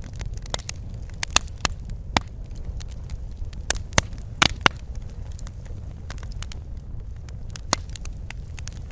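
Wood fire in a fireplace crackling, with sharp irregular pops over a steady low rumble of the flames. A few louder pops come together about four and a half seconds in.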